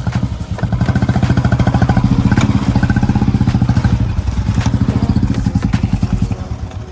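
An engine running with a rapid, even pulse, loud and steady, easing off slightly in the second half.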